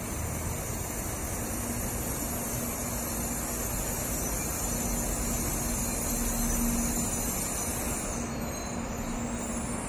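N700-series Shinkansen train running slowly into the platform and slowing to a stop: a steady rumble of wheels and running gear with a faint motor hum. It grows a little louder as the nose passes, about six to seven seconds in, and a high hiss fades out near the end.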